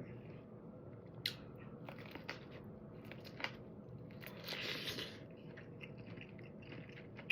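A person chewing and biting food, with soft crunches and mouth clicks. A louder crunchy stretch comes about halfway through.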